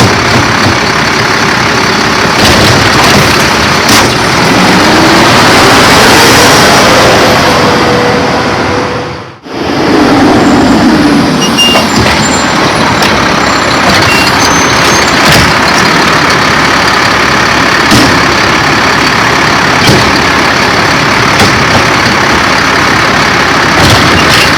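Garbage truck running loud at close range, its diesel engine droning steadily with a few sharp knocks. The sound fades out briefly about nine seconds in, then the truck noise comes back.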